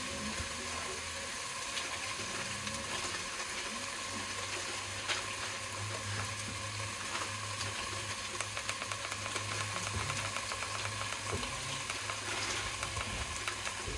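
Food sizzling steadily in a Saladmaster electric pan on its heating base, a dense even crackle of frying. A low hum comes in for several seconds in the middle, and there is a single click about five seconds in.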